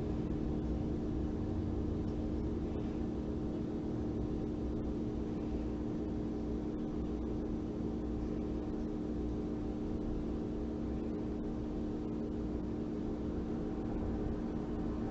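Steady low hum with a constant hiss, unchanging throughout; no distinct handling or tapping sounds stand out.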